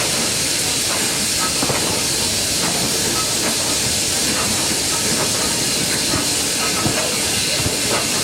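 Steam locomotive letting off steam in a loud, steady hiss, with a few faint clicks.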